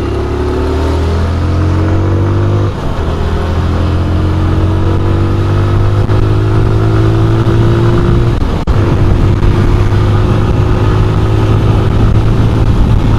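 Single-cylinder engine of a TVS Apache RTR 160 motorcycle pulling away and accelerating, its pitch rising and dropping twice as it shifts up through the gears, then running at a steadier speed.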